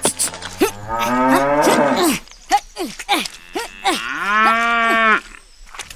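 Cattle mooing: a long moo starting about half a second in, a few shorter calls, then a second long moo from about four seconds in.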